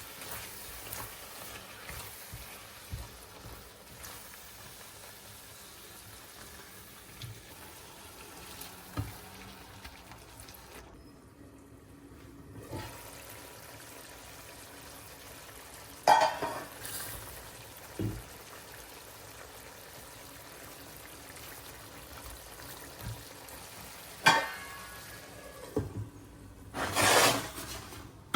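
Steady rush of running water, with a few sharp knocks and clatters, the loudest about halfway and near the end.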